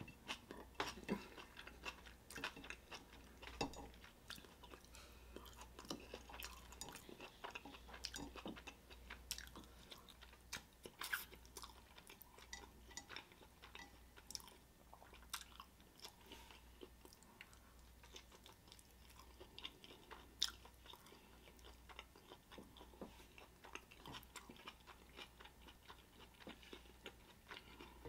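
Quiet, close-miked chewing and mouth sounds of someone eating a burrito: irregular wet clicks, lip smacks and soft crunches throughout.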